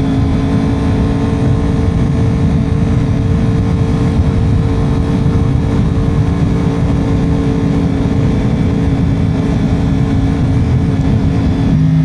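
Motorcycle engine running at a steady cruising speed, its note holding one pitch, under heavy wind noise on the microphone.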